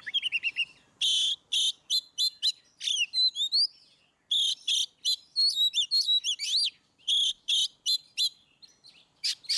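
Oriental magpie-robin (kacer) singing a loud, clear, varied song. It opens with a quick run of short notes, then gives a string of separate whistled notes and rising-and-falling phrases, with short breaks about four and eight seconds in.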